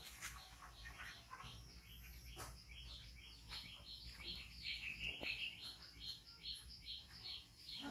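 A small bird chirping over and over, short high chirps about three a second, with a few faint clicks.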